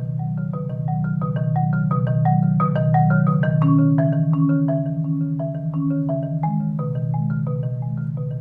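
Solo marimba playing a steady, even pattern of quick mallet strokes over sustained low notes, swelling louder about halfway through and easing back toward the end.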